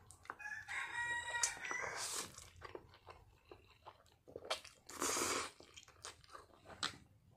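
A person chewing a mouthful of Samyang Buldak tomato pasta noodles, with wet mouth clicks and a louder noisy burst about five seconds in. A drawn-out pitched call sounds in the background from about half a second to two seconds in.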